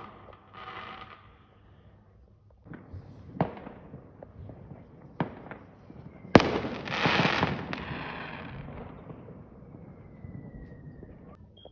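Fireworks going off: a few sharp bangs, then a louder bang about six seconds in followed by about two seconds of crackling hiss, and a faint falling whistle near the end.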